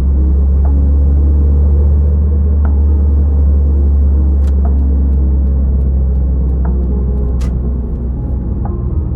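Steady low rumble of a 2007 Toyota Corolla Altis heard from inside the cabin while driving: engine and road noise, easing off slightly near the end.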